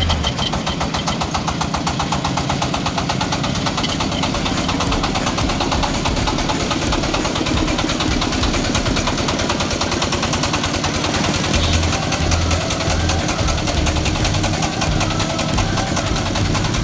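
Diesel engine of a mini self-loading concrete mixer running steadily, with a rapid, even knocking beat.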